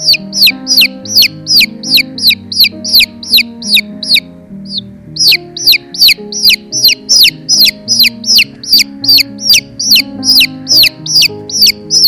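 Bird chicks peeping rapidly and insistently, about three high, downward-sliding peeps a second, with a short pause about four seconds in, over background music of slow, held keyboard-like notes.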